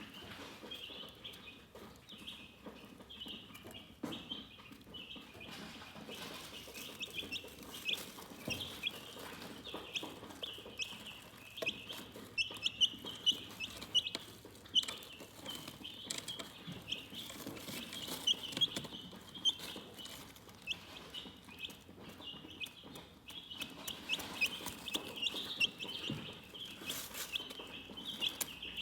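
Chickens chirping: many short, high peeps overlapping one another without a break.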